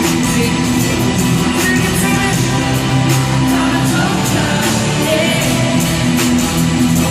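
Live concert band music heard loud from the audience, with a steady beat and some singing.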